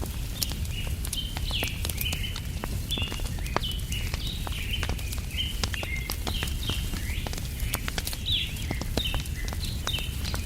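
Campfire crackling with frequent sharp pops over a low rumble, while birds chirp continuously in short, quick notes.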